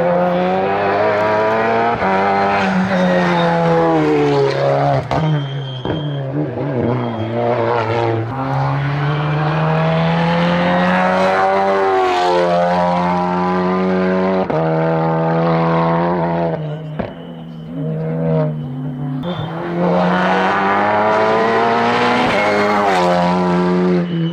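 Hillclimb competition car engine driven hard. The revs climb and drop again and again through gear changes, with a few sharp cracks, and the car eases off for a moment about two-thirds of the way through before pulling hard again.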